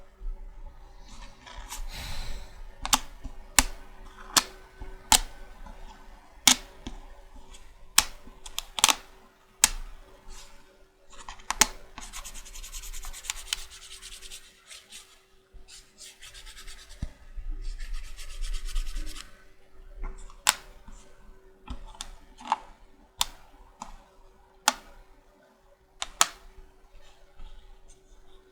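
Magnetic checkers set being handled: sharp, separate clicks of the pieces, with a few longer stretches of rubbing and sliding between them.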